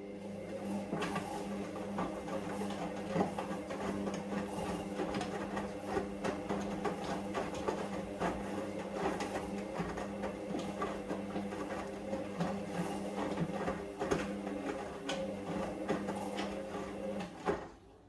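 Hoover Vision Dynamic washing machine running mid-cycle: a steady motor hum with scattered clicks and rattles, starting suddenly and cutting off a little before the end.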